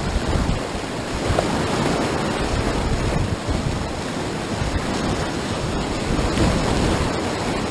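Whitewater of a river rapid rushing in a steady, dense roar, with low buffeting on the microphone.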